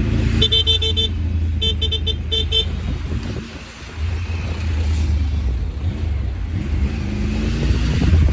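Motorcycle engine running at road speed. Early on, a horn gives two quick series of short high beeps, four or five beeps each. The engine eases off briefly around the middle and then pulls again.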